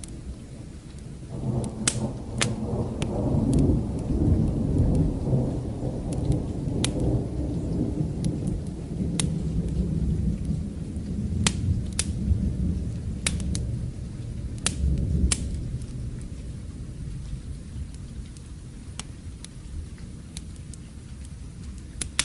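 A long roll of distant thunder that builds about a second and a half in and fades away over the next fifteen seconds, over steady rain. Sharp crackles and pops from a wood fire come and go throughout.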